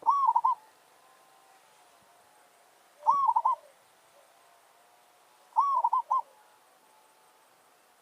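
Zebra dove cooing: three short bursts of quick rippling coos, each about half a second long, roughly every three seconds.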